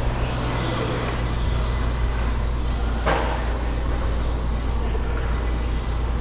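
Electric RC stadium trucks racing on an outdoor dirt track: a steady low hum under a wash of noise, with one sharp knock about three seconds in.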